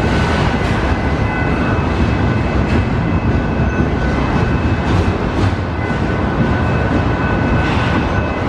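Union Pacific mixed freight train rolling past, freight cars making a steady heavy rumble with occasional clacks from the wheels and a faint steady high ringing.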